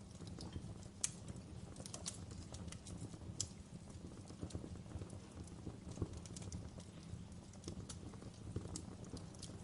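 Wood fire burning in a fireplace: logs crackling with irregular sharp pops and snaps over a low, steady rumble of the flames.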